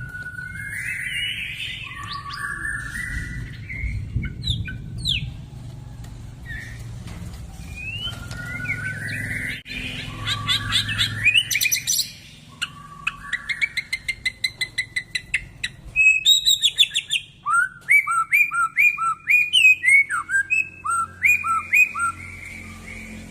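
White-rumped shama (murai batu) singing in full, excited song: varied rising whistled phrases, then fast rapid-fire repeated notes and, in the second half, a run of sharp downslurred notes.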